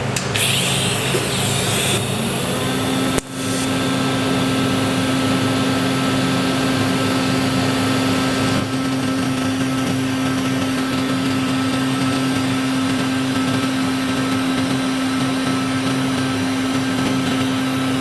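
TIG welding arc running steadily as silicon bronze filler rod is brazed onto a steel motorcycle swing arm, with a steady hum and one very short break about three seconds in.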